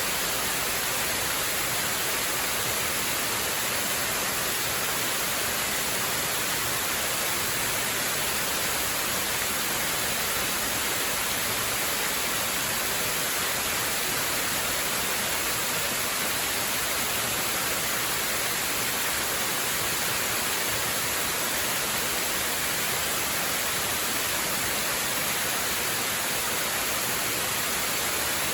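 Waterfall rushing: a steady, even hiss of falling water that doesn't change.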